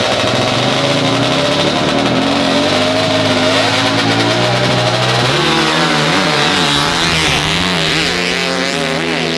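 Off-road racing engines revving hard, their pitch swinging up and down. From about halfway, several engines are heard at once.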